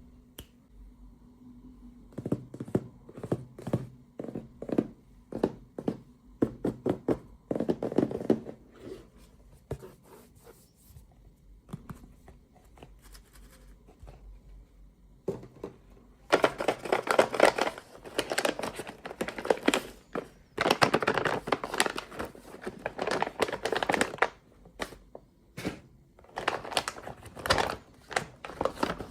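Packaging being opened by hand: a run of light clicks and taps, then three longer spells of tearing and crinkling of wrapping, each a few seconds long.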